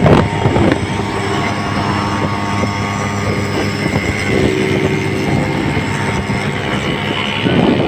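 Motorcycle and auto-rickshaw engines running steadily at road speed, a loud continuous drone mixed with road noise, with another engine's note joining about halfway through.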